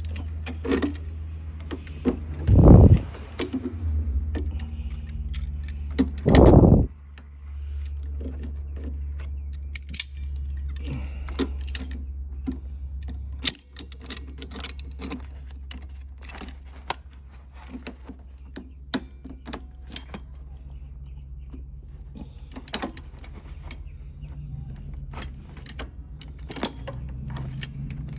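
Scattered metallic clicks and clinks of hand tools and fittings being worked, over a steady low hum, with two short loud bursts of noise in the first seven seconds.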